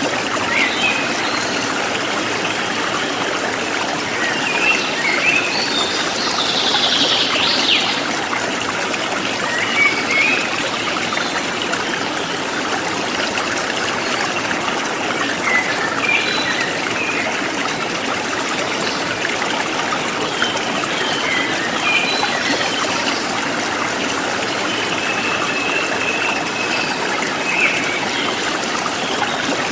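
Forest stream flowing and trickling steadily, with birds chirping briefly here and there above the rush of water.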